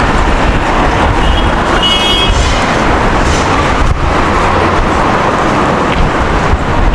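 City street traffic: a steady noise of cars and other road vehicles with a heavy low rumble. A brief high-pitched tone sounds about one and a half to two and a half seconds in.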